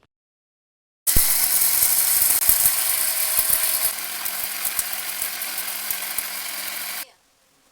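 Electric mixer grinder dry-grinding roasted gram (pottukadalai) into powder in its jar. The motor starts abruptly about a second in, grinds loudly, turns a little quieter about four seconds in as the gram breaks down, and cuts off sharply near the end.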